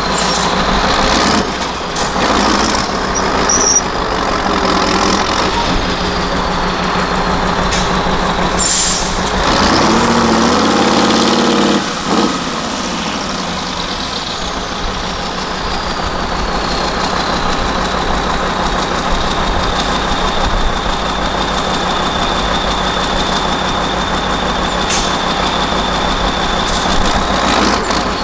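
Diesel engine of a Mercedes-Benz 8x8 trial truck running under load and revving up around ten seconds in. A short hiss of air comes about nine seconds in, and a high whine falls and then holds steady through the second half.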